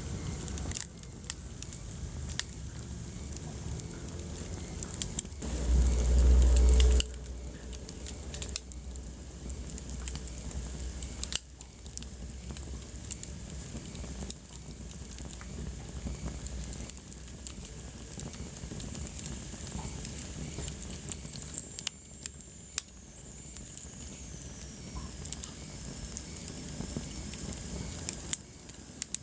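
Wood fire burning in a fireplace, crackling with frequent sharp pops over a low steady rumble. A loud low rumble lasting about a second comes about six seconds in. A faint thin whistle falls in pitch about two-thirds of the way through.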